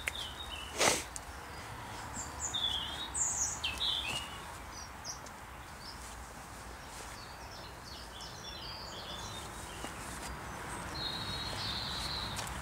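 Small woodland birds chirping and calling on and off, with a short steady trill near the end. A single sharp knock about a second in is the loudest sound.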